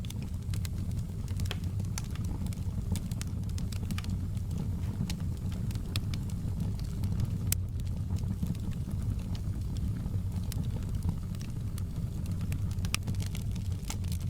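Wood fire in a fireplace crackling, with frequent sharp, irregular pops over a steady low rumble of the flames.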